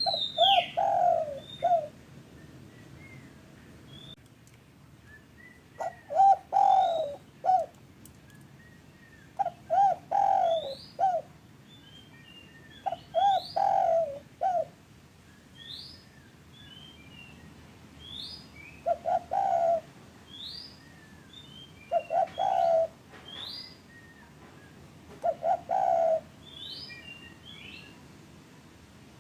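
Spotted dove (derkuku) cooing: short phrases of three or four low coos, repeated every few seconds. Small birds make short rising chirps between the phrases.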